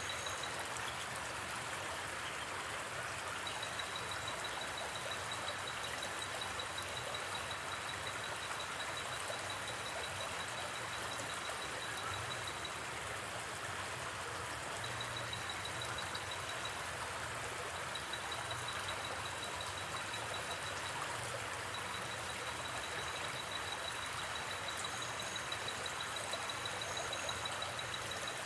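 Steady rushing of a flowing river. A high, fast-pulsing insect trill comes and goes over it in stretches.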